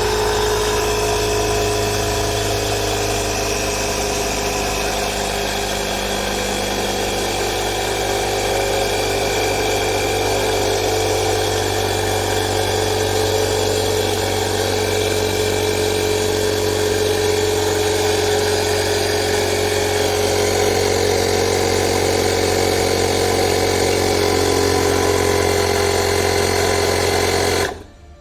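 Portable electric air compressor (tyre inflator pump) running with a steady buzzing hum, then cutting off abruptly near the end.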